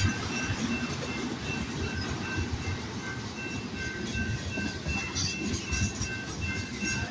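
CPKC manifest freight train's tank and autorack cars rolling past, a continuous rumble with wheels clattering over the rail joints. A grade-crossing bell rings in a steady, even rhythm over it.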